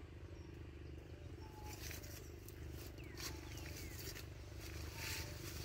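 Steady low rumble, with birds giving short whistled notes and falling chirps over it in an orchard.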